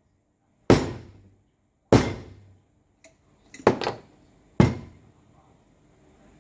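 Hand hammer striking metal parts: four sharp blows a second or so apart, each with a short ring, with a light tap just before the third. Typical of tapping a part into place while reassembling a demolition hammer.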